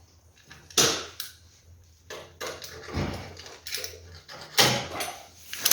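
Excess sealing cord around a stove chimney adapter being cut off by hand: a series of short scraping and knocking sounds about a second apart.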